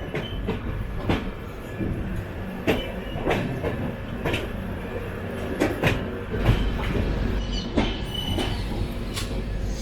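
Passenger train rolling slowly through a yard, its wheels knocking over rail joints and points at irregular intervals over a steady rumble. The low rumble grows heavier about six and a half seconds in.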